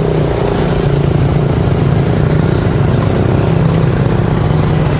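A motorbike engine running steadily, over a constant hiss of road noise.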